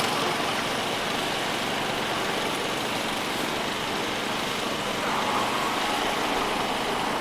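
Steady engine noise from a vintage commercial vehicle running as it goes past.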